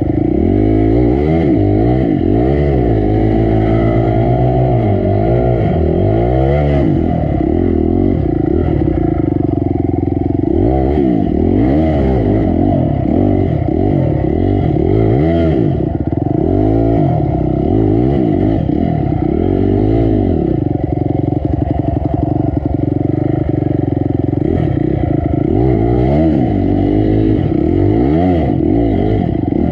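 Dirt bike's single-cylinder four-stroke engine working hard on a rough climb, its revs rising and falling over and over as the throttle is blipped and released, with a brief lull around the middle.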